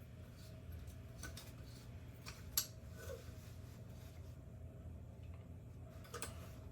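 A few light clicks and knocks from small parts of a track light fixture being handled during its teardown, the sharpest about two and a half seconds in, over a steady low hum.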